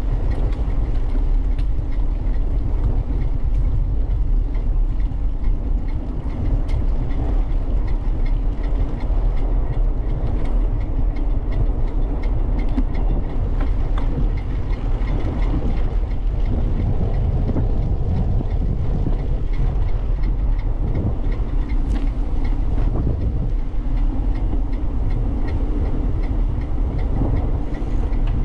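Steady low rumble of a bicycle riding along a path, picked up by a camera mounted on the bike: tyre and frame vibration with faint ticks and rattles.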